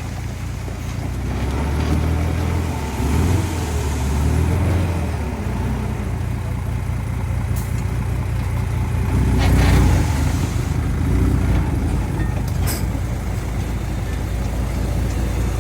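Diesel engines of earthmoving machinery running steadily, rising and falling in speed in the first few seconds. A brief louder, rushing noise comes about ten seconds in.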